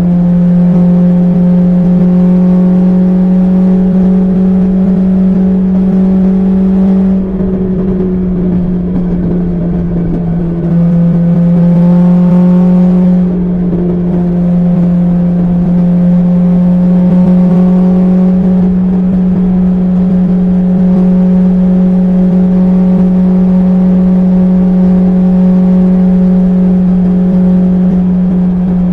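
BMW S1000XR's inline-four engine running through an Akrapovic exhaust at steady cruising revs. The revs ease off slightly about seven seconds in, then pick up again with a louder pull around eleven seconds.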